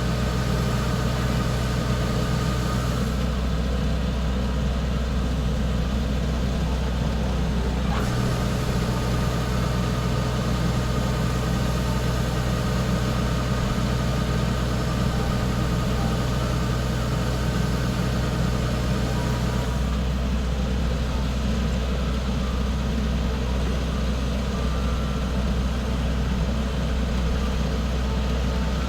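Combine harvester's diesel engine running steadily with a deep, even hum; a higher hum in the engine note drops out a few seconds in, comes back, and drops out again about two-thirds of the way through.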